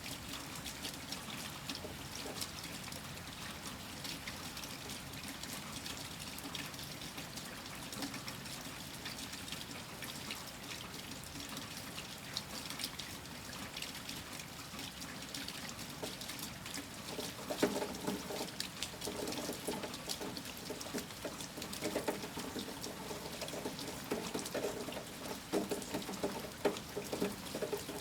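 Steady rain, a hiss dotted with the patter of many small drops and a trickle of running water. About two-thirds of the way through, louder, irregular dripping and splashing joins in.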